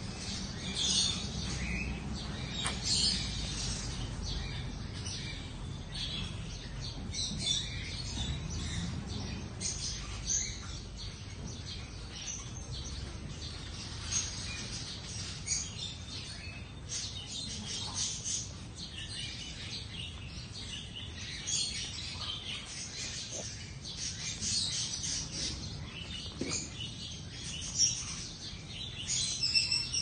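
Birds chirping: many short, high chirps scattered irregularly, over a low steady background rumble.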